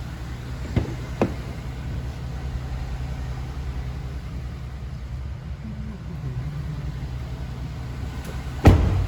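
Pickup truck's engine idling with a steady low hum. Two light clicks about a second in, and a sharp thump near the end.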